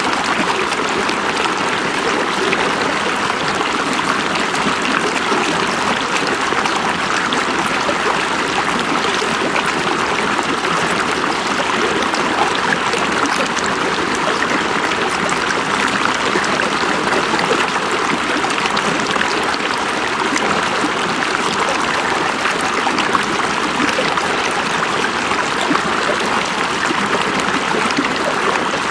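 River water flowing and babbling over rocks, a steady rushing and gurgling with no pauses or changes.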